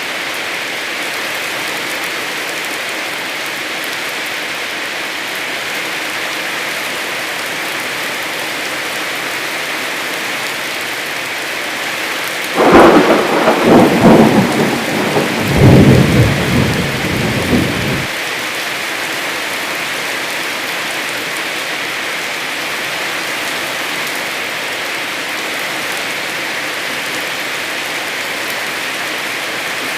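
Heavy rain falling steadily, with a loud clap of thunder about twelve seconds in that rolls on for about five seconds and then cuts off suddenly.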